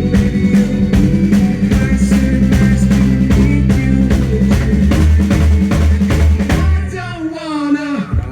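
Live indie rock band playing: drum kit keeping a steady beat with bass and guitar. About six and a half seconds in, the drums and bass stop, leaving a wavering, sliding tone and a quieter guitar.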